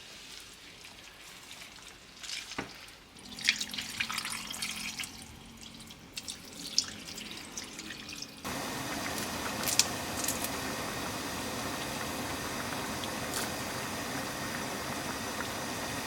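Kitchen water: intermittent splashing and dripping, then, after an abrupt cut about halfway through, a steady rush like a running tap with a few clinks.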